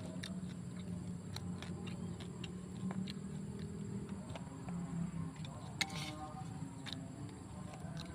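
Close-up mukbang eating sounds: chewing and crunching cooked sparrow, with many small irregular clicks and ticks.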